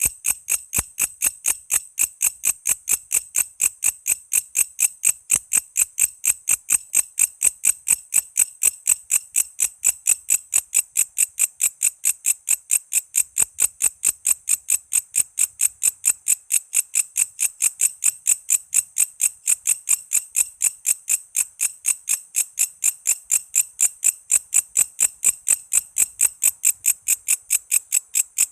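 Walang kece, a singing katydid, calling in an even, unbroken train of sharp high chirps, about four a second.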